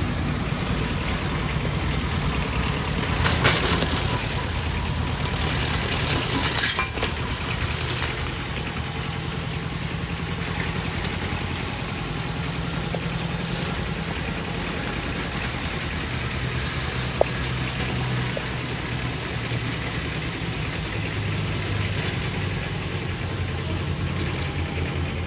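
Tractor engine running steadily while working a grass-mowing attachment, with louder noisy stretches a few seconds in and again around seven seconds in, and a single sharp click near the middle.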